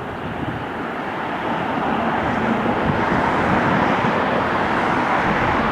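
Wide-body jet airliner's engines passing, a broad rushing noise that grows steadily louder as the aircraft approaches.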